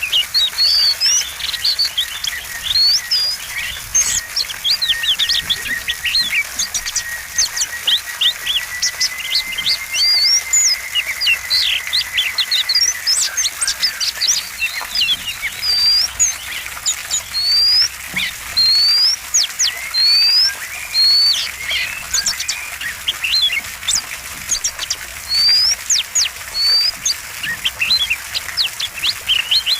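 Oriental magpie-robin singing continuously: a fast, dense stream of sharp chirps and clear rising whistles, with mimicked phrases of other birds worked into the song. A thin, steady high tone holds underneath for several seconds in the first half.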